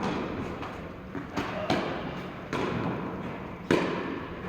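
Tennis rally: a ball struck by rackets and bouncing on the court, four sharp knocks at uneven intervals, the loudest near the end.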